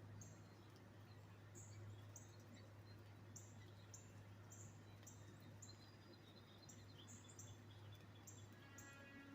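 Faint, high bird chirps repeating about once or twice a second, with a short pitched call near the end, over a low steady hum.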